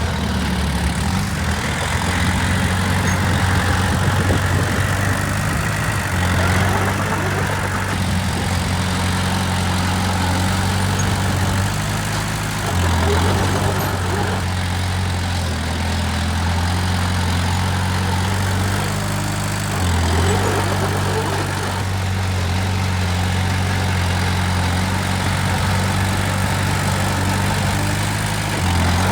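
Heavy diesel engine of earthmoving machinery running steadily at a low pitch, its engine speed stepping up and down slightly a few times.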